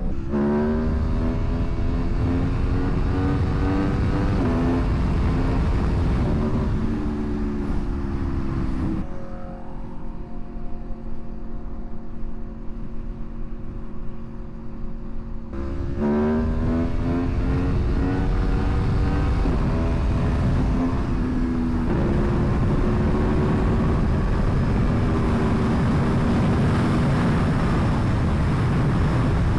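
Aprilia Tuono motorcycle engine accelerating hard through several upshifts, the pitch climbing and dropping back at each shift. About nine seconds in it settles to a quieter, steady note for several seconds, then pulls through the gears again and holds a steady cruise with rising wind noise.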